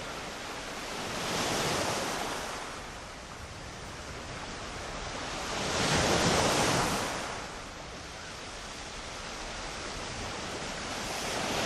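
Ocean waves surging and washing in, swelling twice about four and a half seconds apart, with a third swell building near the end.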